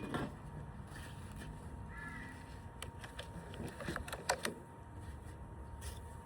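A bird calling a few short times over faint steady outdoor background noise.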